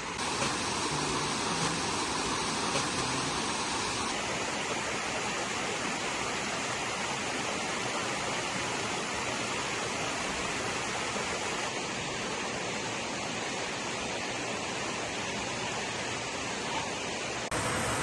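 Waterfall rushing: a dense, steady roar of falling water. The sound shifts abruptly about four seconds in and again near the end.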